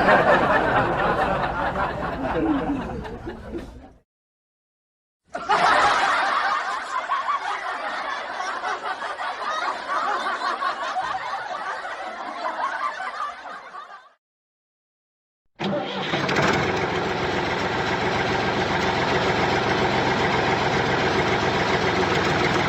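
Small mini-tractor engine running, heard in three short stretches cut apart by brief total silences; in the last stretch it runs steadily.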